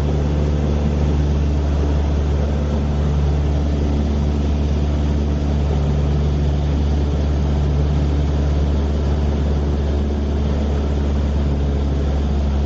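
Steady drone of an aircraft's engine, heard from on board the aircraft shooting aerial footage: an even, unchanging low hum with noise over it.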